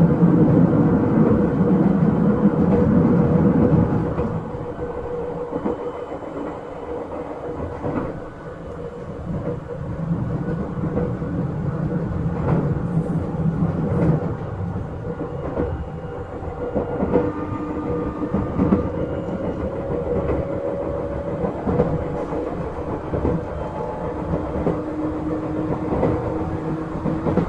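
Izukyu 8000-series electric train running on the rail, with steady running noise and scattered wheel clicks over rail joints. The noise is louder for about the first four seconds, then drops. A faint tone rising in pitch comes in over the last few seconds.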